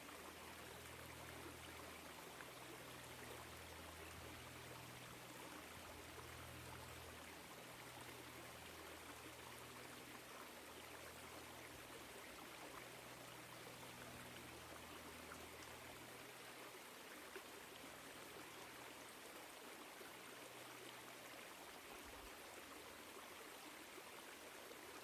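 Woodland stream flowing: a faint, steady trickle and rush of water.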